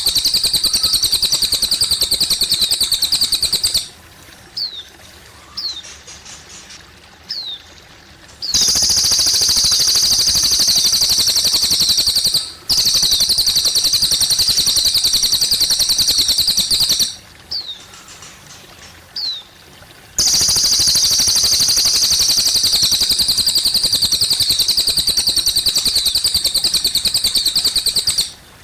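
A cililin songbird singing long, loud, rapid high trills, each lasting several seconds, with short descending chirps in the pauses between them. Faint trickling water runs underneath.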